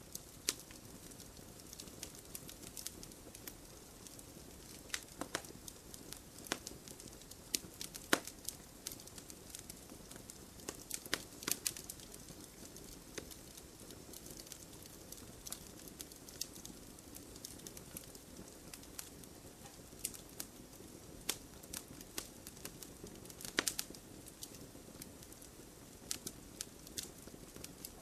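Wood campfire crackling: irregular sharp pops and snaps, a few louder ones, over a steady low hiss of burning.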